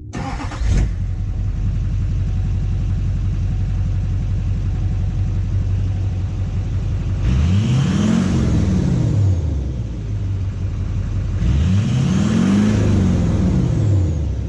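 Duramax LBZ 6.6 L V8 turbodiesel with its muffler deleted, idling and then revved twice, each rev rising and falling in pitch over about two to three seconds.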